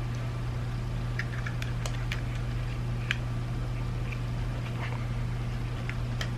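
A steady low hum with scattered light clicks and taps from small plastic parts of an iDrive controller being handled during reassembly.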